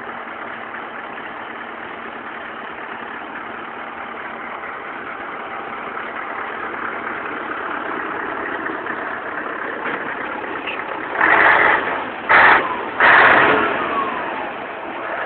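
Scania 143M 450's V8 diesel running under acceleration, its sound growing steadily louder over several seconds. Near the end come three short, very loud bursts of sound.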